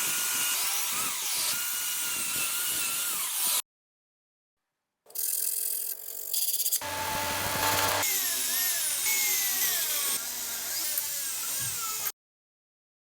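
Handheld power tool running against metal, its motor whine wavering up and down under load, in two edited stretches broken by a gap of dead silence.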